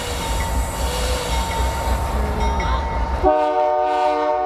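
Diesel locomotive rumbling as the train departs, then its air horn sounds a multi-note chord, starting about three seconds in and held.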